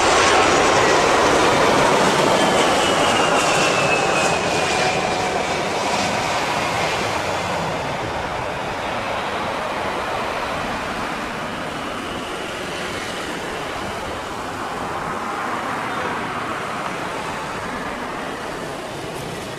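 Airbus A320 jet airliner's engines after landing, with a whine falling in pitch a few seconds in. The engine noise is loudest at first and fades steadily as the jet moves away.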